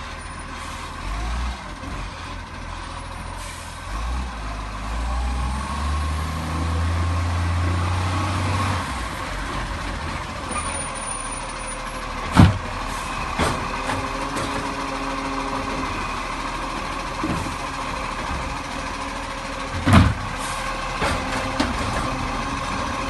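Garbage truck running, its engine rising in speed and level for a few seconds, followed by two loud bangs, one about halfway through and one near the end, with a few smaller knocks.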